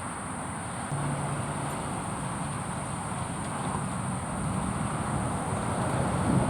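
Motor vehicle engine hum, starting about a second in and slowly getting louder.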